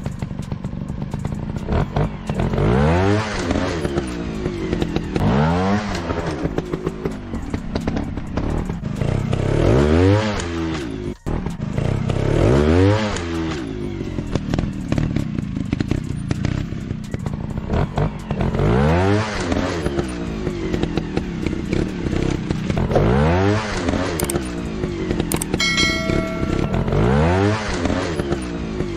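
Dirt bike engine repeatedly revving up and dropping back every few seconds, with short blips of throttle. A brief electronic-sounding tone near the end.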